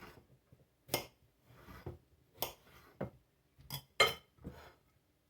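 Kitchen knife slicing cucumbers into thin spears, striking the cutting board with short, sharp knocks about six times at uneven intervals.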